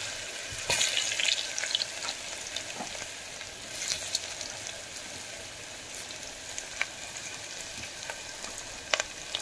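Potato pieces, green chillies and tempering seeds sizzling in hot oil in an aluminium pressure cooker: a steady frying hiss broken by a few sharp crackles.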